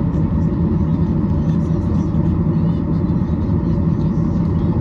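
Cabin noise inside a Boeing 737-800 under way: a steady, loud low rumble of its CFM56 jet engines and airflow.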